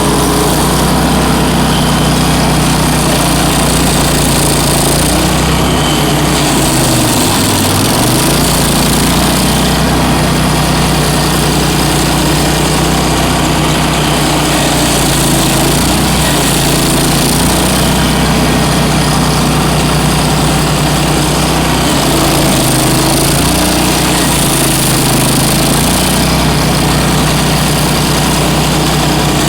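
Bandit ZT1844 stump grinder's gasoline engine running loudly and steadily; its pitch sags briefly about seven seconds in and then recovers.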